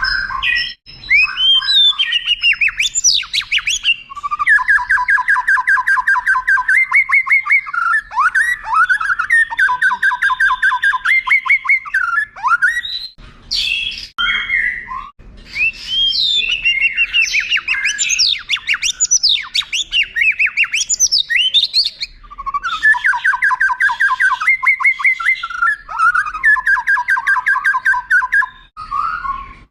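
White-rumped shama singing a long, varied song. It runs rapid trills of repeated notes lasting a few seconds each, in between clear whistles and sweeping, up-and-down phrases.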